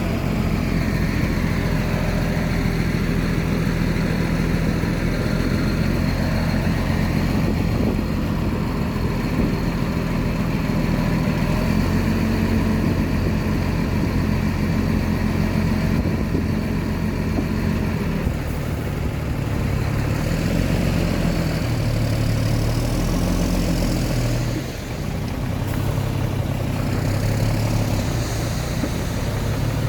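Diesel engine of heavy earthmoving machinery running steadily, its pitch shifting under changing load about two-thirds of the way through, with a brief drop in level about 25 seconds in.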